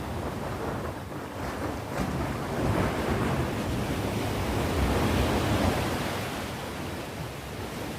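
Sea waves breaking and washing on the shore: the surf swells about two seconds in, peaks midway, then eases back down.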